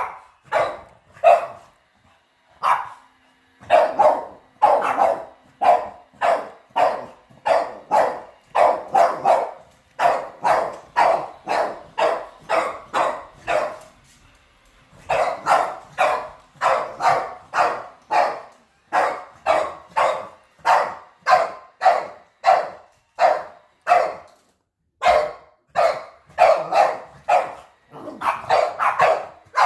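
Boston terrier barking over and over, about two sharp barks a second in long runs with brief pauses, at a robot vacuum cleaner.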